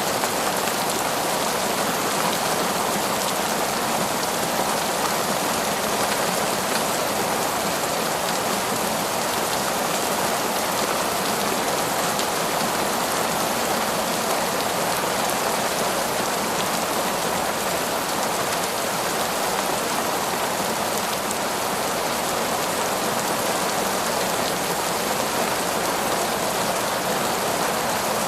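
Heavy torrential rain falling steadily: a dense, even downpour of drops with no change in strength.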